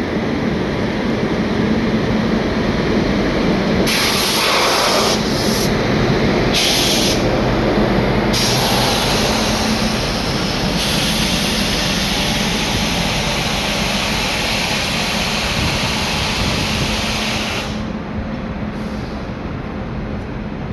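A goods train of automobile-carrier wagons running past, a loud steady rush and rumble of wheels on the rails. A harsher hiss comes in about four seconds in and drops away near the end.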